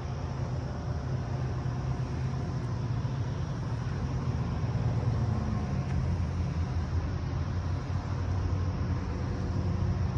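An engine running steadily with a low, even hum that grows slightly louder.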